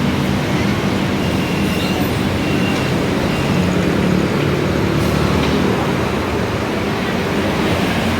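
Scania K320iA CNG city bus under way, heard from inside the cabin: a steady engine drone with road and body noise.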